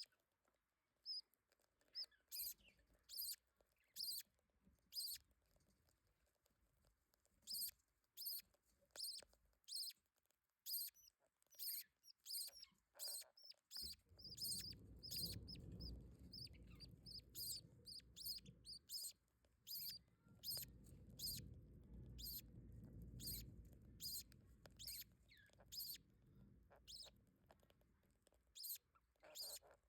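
Budgerigar nestlings squeaking with short, high, repeated begging peeps while being fed, at times several a second. A low rumble comes in about fourteen seconds in and fades out near the twenty-fifth second.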